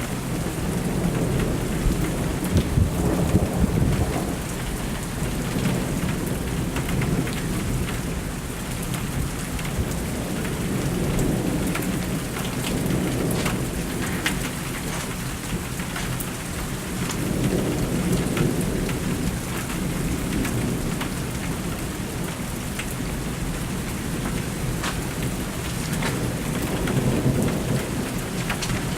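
Steady rain falling, with drops ticking on a nearby surface, and thunder rumbling in several long swells, the loudest a few seconds in.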